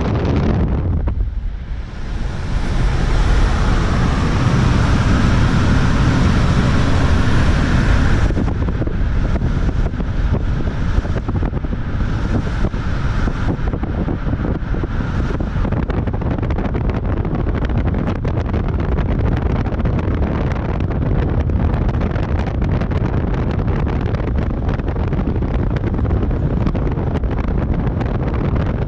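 Wind buffeting the microphone with a steady low rumble, and a brighter rushing hiss from about two to eight seconds in.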